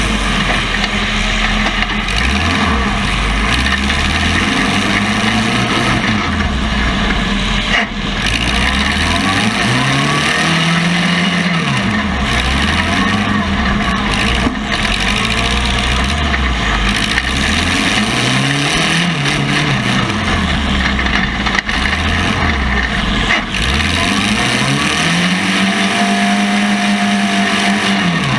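Compact derby cars' engines revving up and down again and again over a constant loud din, with a few sharp knocks along the way.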